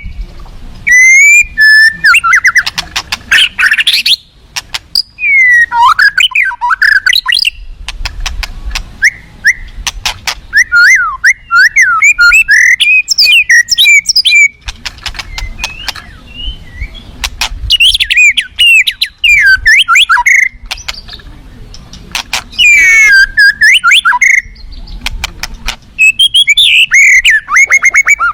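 White-rumped shama (murai batu) singing loudly: about six bursts of quick, varied whistled phrases mixed with sharp clicking notes, separated by short pauses.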